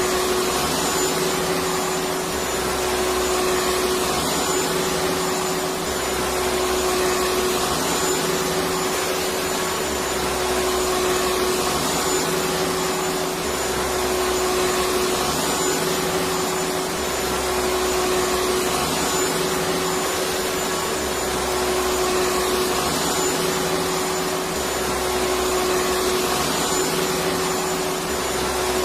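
Vacuum cleaner motor running steadily, a constant rush of air with a high steady whine, swelling slightly and easing back about every three to four seconds.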